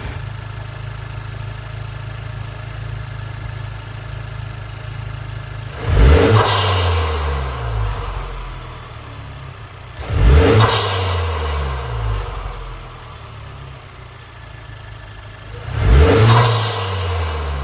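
2020 Honda Civic Type R's turbocharged 2.0-litre four-cylinder, breathing through a PRL Stage 1 intake with a high-flow filter, idling and blipped three times: about six, ten and sixteen seconds in. Each rev rises sharply and falls back to idle.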